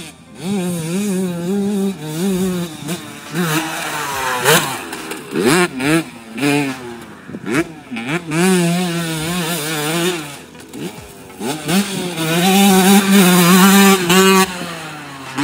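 Yamaha YZ125 two-stroke dirt bike engine being ridden hard. It revs up and drops back over and over through the gears, with a long stretch held high near the end.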